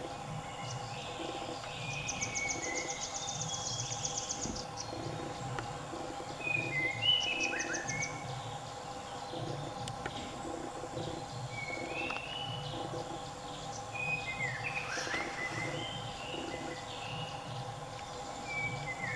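Forest birds calling: short chirps and gliding whistles throughout, with a fast trill from about two seconds in and again briefly near eight seconds, over a steady low hum.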